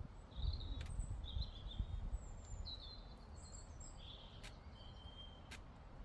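Small songbirds chirping and trilling in short high phrases, one after another. Under them is a low wind rumble on the microphone that eases after the first couple of seconds, with a few sharp clicks.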